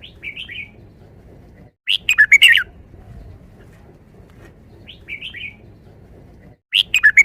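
Red-whiskered bulbul singing its repeated song twice: a short soft phrase, then a louder, quick run of about five whistled notes.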